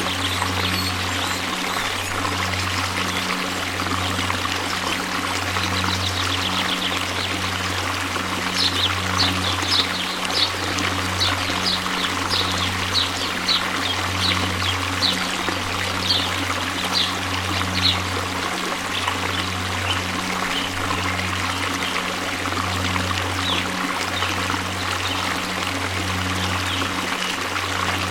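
Waterfall: steady rushing, splashing water. From about a third of the way in, a run of short high chirps comes over it, roughly one or two a second, for about ten seconds.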